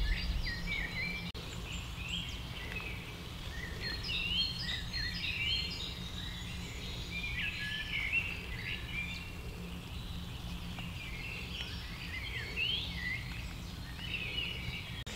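Songbirds singing: a busy mix of many short chirps and whistles, some overlapping, over a low steady rumble.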